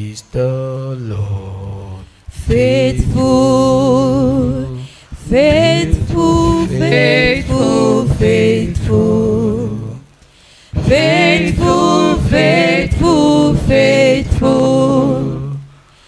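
Voices singing a slow gospel praise song in phrases, with long held notes with vibrato and brief pauses between lines.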